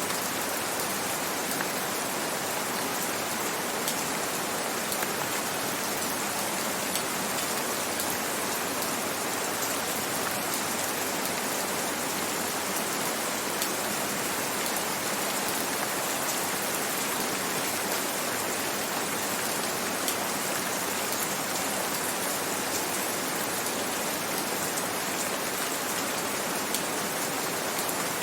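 Steady gentle rain: an even hiss of rainfall with scattered faint drop ticks.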